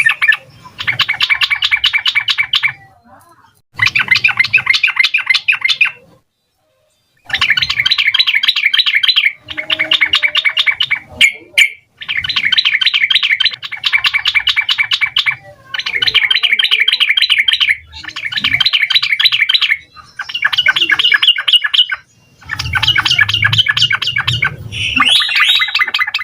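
Yellow-vented bulbul (trucukan) singing: a rapid, chattering run of notes delivered in phrases of about two seconds each, about eleven phrases with short pauses between them.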